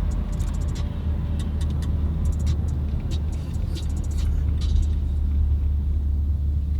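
Car driving on a wet road, heard from inside the cabin: a steady low engine and road rumble with tyre noise, and scattered faint ticks.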